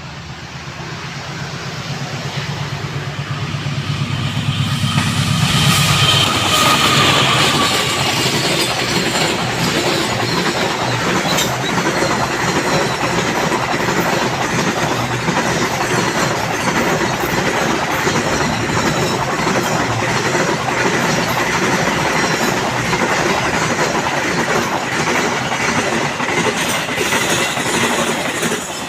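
A diesel locomotive approaches, its engine note growing louder until it passes about six seconds in, followed by a long train of cars running through the station turnouts at speed. The wheels clatter steadily over the rail joints and switch, with a faint squeal.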